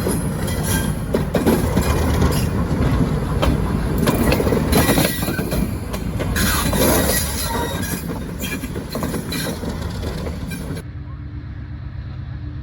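Train rolling past, a loud rumble of rail cars with frequent clicks from the wheels over rail joints. About eleven seconds in it cuts off suddenly, leaving a quieter, steady low hum.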